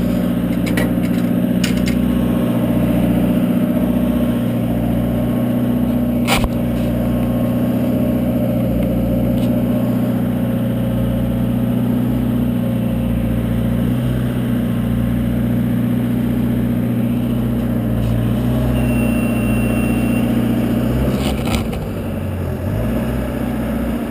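Engine of a boom lift running steadily under load as the lift works, with a sharp click about six seconds in. Near the end the engine note drops and gets quieter.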